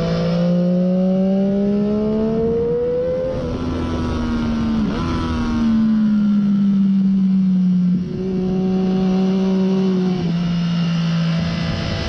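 Triumph Daytona 675's inline three-cylinder engine through a Hindle slip-on muffler, heard from on the bike. It climbs in pitch for about three seconds, changes gear with a sharp dip and jump near the five-second mark, then eases gradually lower in pitch with a couple of further gear steps.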